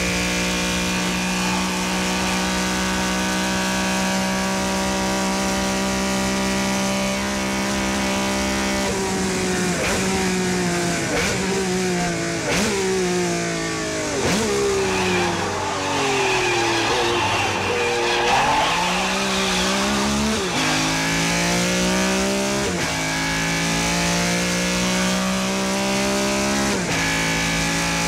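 Mazda MX-5's four-cylinder engine held at steady high revs, then a string of downshifts with the engine note stepping down in pitch, with tyre squeal through the slowest part. It then pulls away through a string of upshifts, each one climbing in pitch, and settles back to steady high revs near the end.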